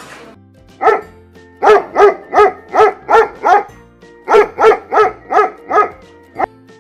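A dog barking in quick runs: one bark, then six in a row at about three a second, then five more and a short last bark near the end.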